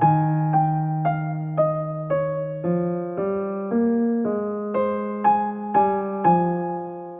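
Background music: a gentle solo piano melody, single notes struck about twice a second over held bass notes.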